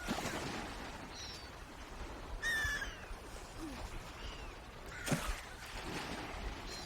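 Swans calling: a few short pitched calls, the clearest about two and a half seconds in and another about five seconds in, with fainter chirps between, over a steady background hiss.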